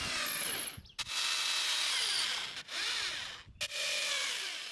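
Power drill driving screws to fasten wire mesh to a wooden cage frame. It runs in four short spells, each stopping abruptly.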